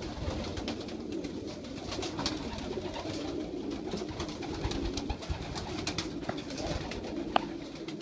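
Young racing pigeons cooing steadily, with scattered small clicks and one sharper click near the end.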